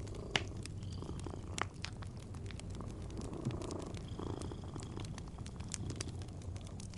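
Domestic cat purring steadily, mixed with a wood fire crackling in a fireplace; sharp pops stand out about half a second in and again a little after a second and a half.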